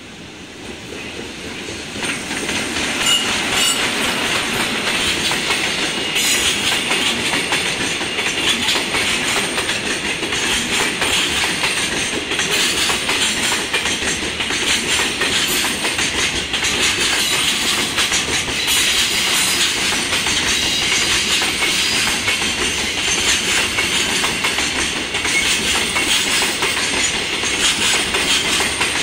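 Freight train hauled by an EF66 electric locomotive going past: the noise builds over the first two seconds as the locomotive passes. Then a long string of container wagons rolls by with a steady clatter of wheels over the rail joints.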